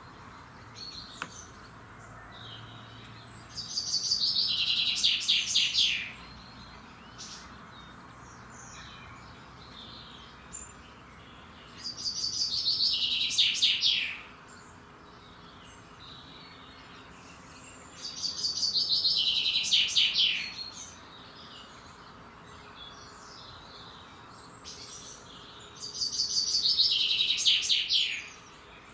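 A songbird repeating one song four times. Each song is a fast trill about two seconds long that falls in pitch, with pauses of several seconds between; fainter chirps from other birds come in the gaps.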